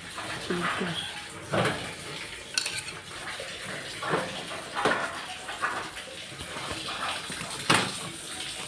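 Hard objects handled and set down: a series of scattered clinks and knocks, the loudest near the end.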